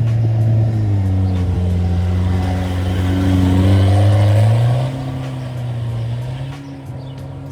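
Rally car engine running hard under load. Its note sags about a second in, holds, then climbs again near five seconds as it eases off and gets quieter.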